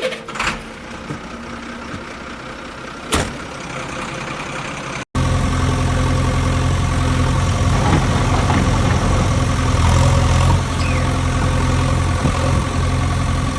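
Steady engine-idling sound for a toy JCB loader, quieter at first with one sharp click, then louder and fuller after an abrupt change about five seconds in.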